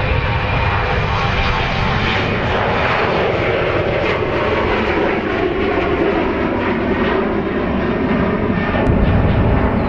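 Airliner engines running as the aircraft passes close by: a steady, loud rumble with a tone that rises over the first few seconds.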